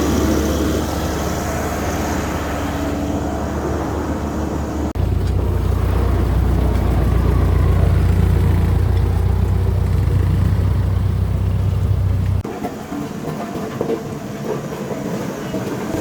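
Heavy-equipment diesel engines running on the move with a strong, steady low hum. The sound changes abruptly about five seconds in and again about twelve seconds in.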